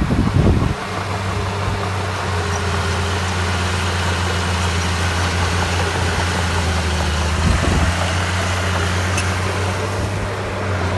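Heavy diesel engine of construction machinery running steadily with a low hum. Brief louder low rumbles come at the very start and again about seven and a half seconds in.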